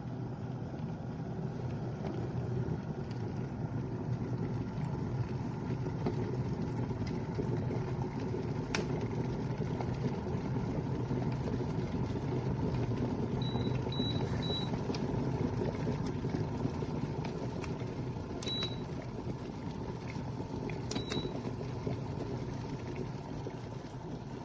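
Glass electric kettle heating water, a steady low hiss and rumble of the water coming up to the boil. About halfway through come three quick high beeps, then single high beeps near the end, with a few sharp clicks.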